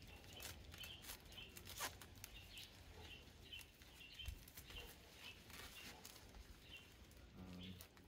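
Faint, quickly repeated high chirps of a small bird, about two to three a second, with scattered soft clicks and crinkles of plastic tape being handled.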